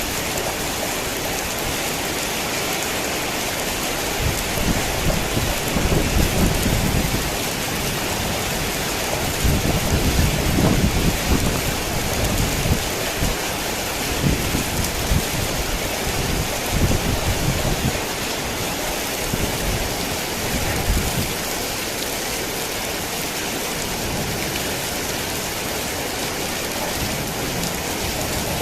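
Heavy rain falling steadily, with low rumbles of thunder rolling in and out from a few seconds in until about two-thirds of the way through.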